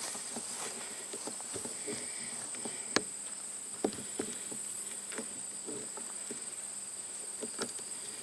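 Steady high-pitched chorus of late-summer insects, an unbroken trill, with a few scattered sharp clicks on top, the loudest about three seconds in.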